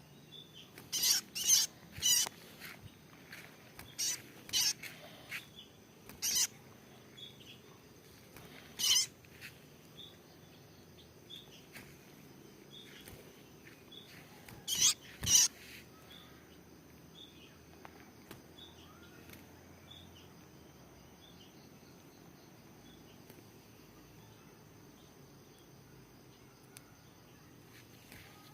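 A small bird chirping softly about once a second, with a handful of loud, short, harsh bursts in the first half, some in quick pairs.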